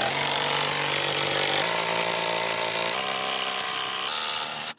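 Motor-driven bead-breaking tool running steadily as it pulls the tractor tire's bead down. Its hum steps lower a few times as it works, and it cuts off suddenly near the end.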